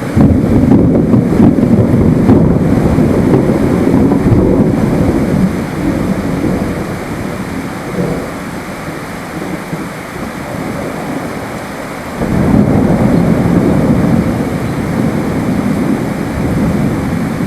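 Steady rain with rolling thunder: a deep rumble breaks in at once and fades over about five seconds, and a second rumble rolls in about twelve seconds later.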